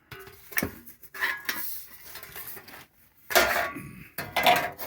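A thin sheet-steel rocker panel piece being set against a truck's rocker and clamped on: irregular metallic clanks, rattles and scrapes, with the loudest clatters about three and a half and four and a half seconds in.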